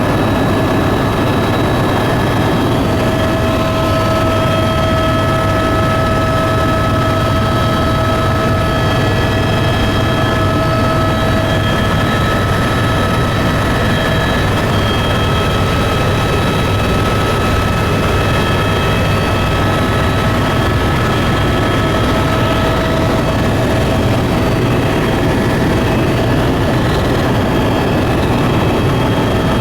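Steady engine and propeller drone of a tour aircraft heard inside the cabin: a constant low rumble with a steady multi-tone whine over it.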